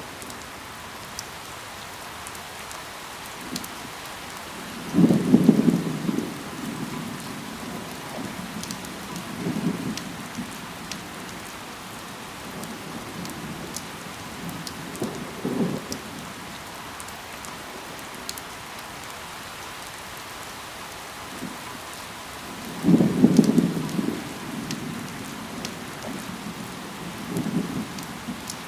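Steady rain falling on leaves, an even hiss dotted with the ticks of single drops. Short, loud, low rumbles rise out of it, the loudest about five seconds in and again near the end, with smaller ones between.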